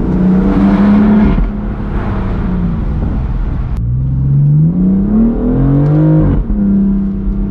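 BMW M4 F83's twin-turbo straight-six engine and exhaust under way. The revs hold, then ease off after about a second and a half. From about four seconds in the pitch climbs steadily under acceleration, drops sharply at an upshift just past six seconds, then holds steady.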